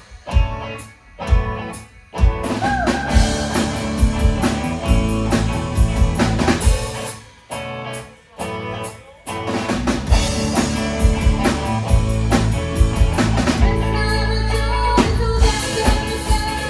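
Live band playing an instrumental passage of a song, led by drum kit and electric guitar, with stop-start breaks where the band cuts out sharply near the start and again about halfway through before resuming full playing.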